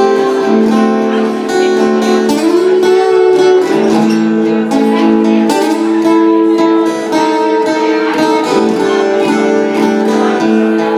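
Acoustic guitar playing a folk-blues song, with sustained chords ringing throughout.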